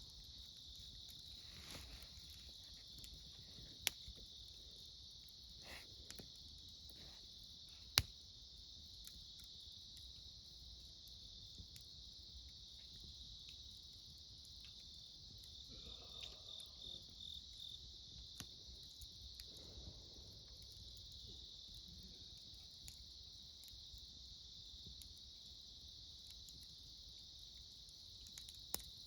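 Autumn crickets chirring steadily and faintly, with a wood campfire crackling now and then and two sharp pops, about four and eight seconds in.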